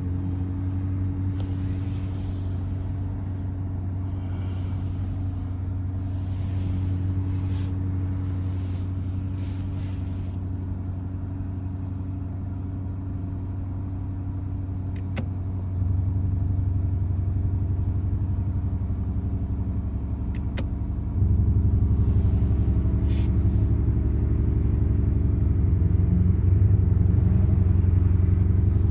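Lamborghini Urus's twin-turbo V8 idling steadily through an Akrapovic exhaust, a deep, even rumble that gets louder in two steps, about halfway through and again about two-thirds of the way through.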